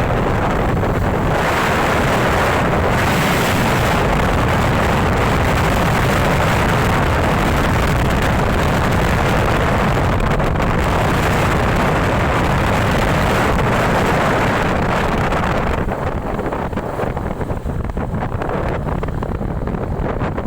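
Wind rushing over the microphone of a camera riding along on a moving bike: a loud, steady rumble and hiss. About three-quarters of the way through, the hiss thins and the rumble turns uneven and gusty.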